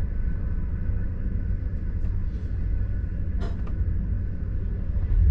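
Steady low rumble of a passenger train running at speed, heard from inside the carriage, with one brief click about three and a half seconds in.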